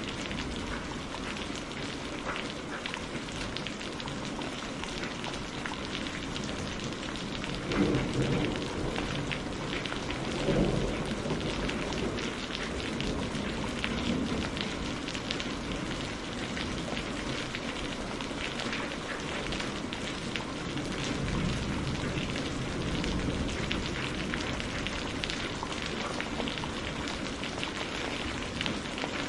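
Steady heavy rain pattering on a surface, thick with small drop crackles. Two low rumbling swells come about eight and ten seconds in.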